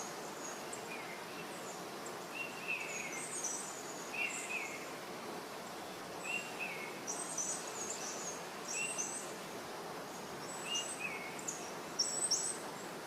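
Birds calling over steady background noise: a short call that drops in pitch, repeated every second or two, with quick high chirps above it.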